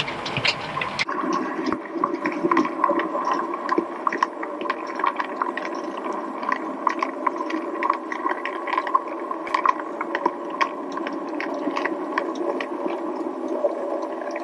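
00 gauge model locomotive running along the layout's track: a steady motor hum with many small, irregular clicks from the wheels on the rails.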